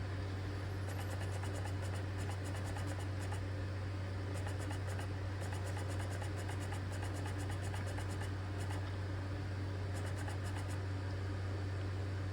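Laptop CD-ROM drive reading the installer disc: quick runs of fine ticking as the drive seeks, starting and stopping several times over a steady low hum.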